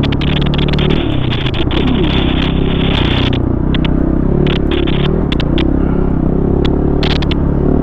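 Single-cylinder four-stroke enduro dirt bike engine under way on single track, its revs rising and falling as the throttle is worked, with a constant rushing noise and many short sharp clicks.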